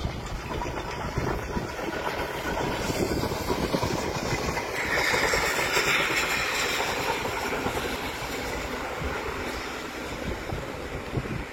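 Train running on the rails: a steady rumble with some clickety-clack, swelling into a louder hiss around the middle.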